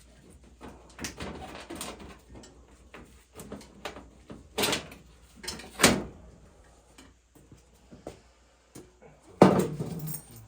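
Metal clunks, knocks and scraping from tools and boiler parts being handled during a tune-up on an oil-fired boiler, in separate strokes with the loudest near the middle and near the end.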